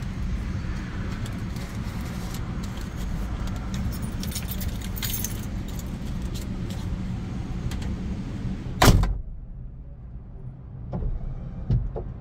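Steady vehicle rumble with jangling and rattling, then one loud thump about nine seconds in, after which the higher-pitched noise drops away, leaving a low hum and a few faint clicks.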